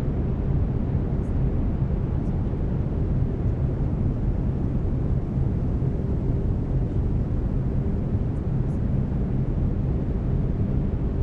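Steady brown noise: an even, deep rushing hiss weighted toward the lows, unchanging in level. Faint steady tones sit underneath, the binaural-beat carriers of a delta-wave track.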